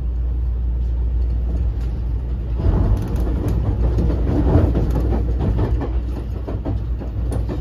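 A JR West 223 series electric multiple unit running along the line, heard from inside its motor car: a steady low rumble of wheels on rail. From about two and a half seconds in until about six seconds, louder rattling and clattering from the wheels and track joins the rumble, then it settles back.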